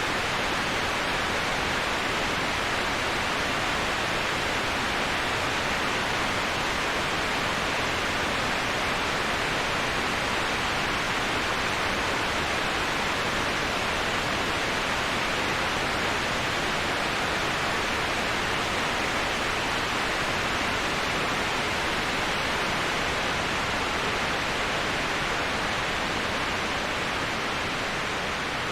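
Steady rushing of a waterfall, an even hiss of falling water without breaks or separate splashes, easing slightly in level near the end.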